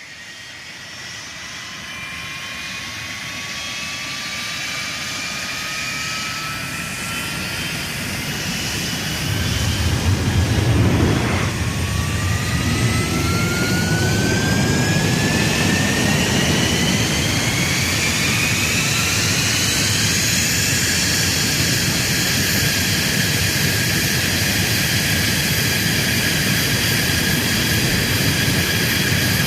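Jet engine spooling up: a whine climbs in pitch for about twenty seconds, a low rumble joins about ten seconds in, and the engine then runs steady with a high whine.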